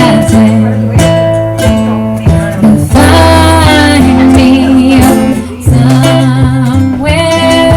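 Live acoustic guitar strumming chords, with a voice singing over it from about three seconds in.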